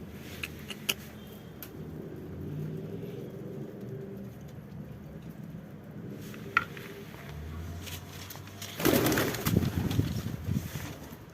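Domestic pigeons cooing with low, repeated coos, with a few sharp clicks. About nine seconds in comes a loud rustling flurry lasting about two seconds.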